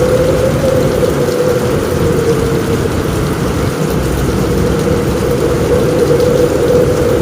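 Heavy rain on a roof, a steady unbroken wash of noise with a low rumble under it.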